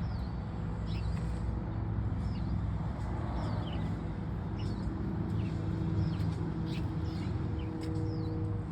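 Small birds chirping repeatedly in short, falling notes over a steady low rumble.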